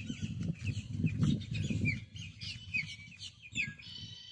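Several birds chirping, a quick string of short, high chirps. Low rumbling handling or walking noise underneath for the first two seconds.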